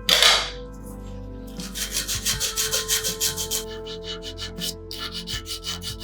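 Hand scraping or abrading of a rusty metal fuel tank: a single loud swipe at the start, then runs of quick back-and-forth rasping strokes, about five a second.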